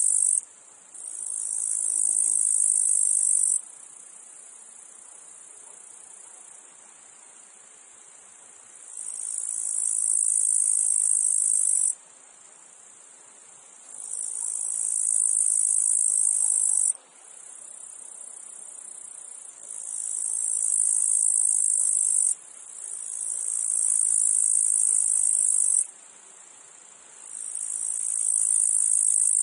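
Meadow insects: cicadas singing a high buzz in repeated phrases, each swelling up over a second or two, holding for a few seconds, then cutting off abruptly, over a fainter steady insect buzz between phrases.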